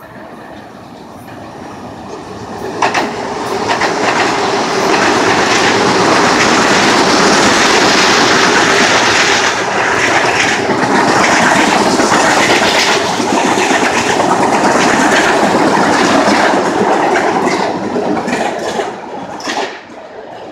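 A train running past the platform on nearby tracks, its wheels clacking over the rail joints. It builds about two seconds in, stays loud with a rapid run of clicks, and falls away near the end.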